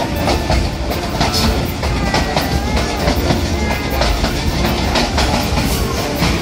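Passenger train running along the rails, heard from inside a carriage by an open window: a steady rumble with the wheels clicking irregularly over the rail joints.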